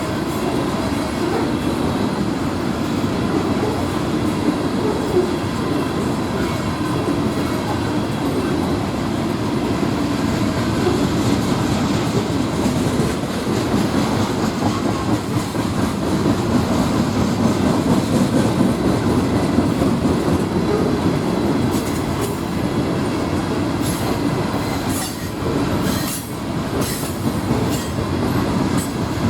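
Norfolk Southern freight train rolling past steadily, with a few sharper clanks near the end.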